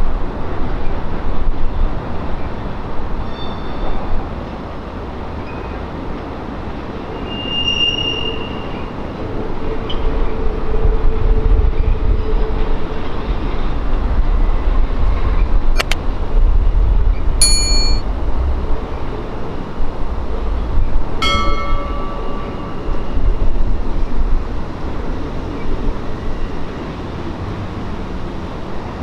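Norfolk Southern intermodal freight train rolling past: a steady rumble of wheels and cars on the rails, with a few brief high-pitched wheel squeals now and then.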